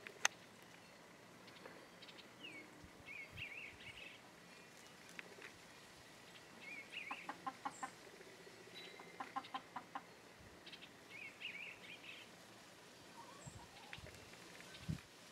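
Chickens clucking softly in two quick runs around the middle, with small songbirds chirping faintly now and then; a single sharp click just after the start.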